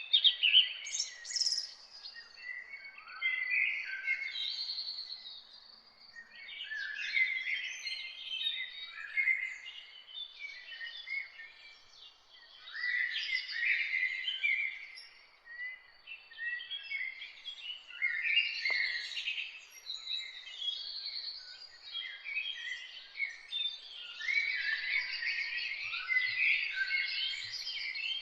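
Several songbirds singing and chirping together in overlapping phrases of quick trills and chirps, with short pauses between bursts. A single faint click comes near the middle.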